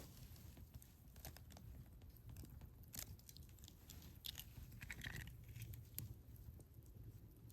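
Faint, scattered small clicks and crinkles of something being handled close by, a few stronger ticks about halfway through.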